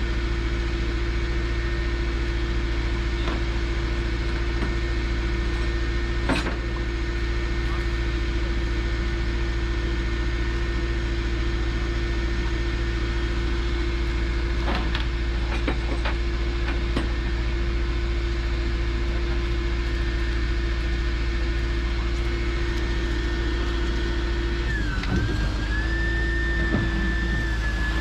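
Tow truck driving at a steady pace: a constant low engine rumble with a steady whine over it. About three-quarters of the way through, the pitch dips briefly and then settles back. A few faint clicks are heard.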